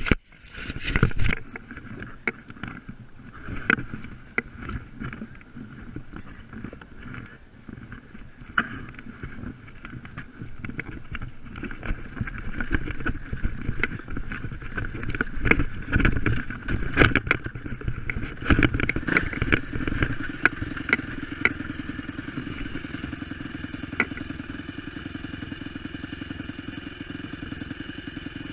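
Yamaha YZ250F dirt bike's single-cylinder four-stroke engine running. Many knocks and clatters come over it through the first twenty seconds, and from about twenty seconds in it settles into a steady, even idle.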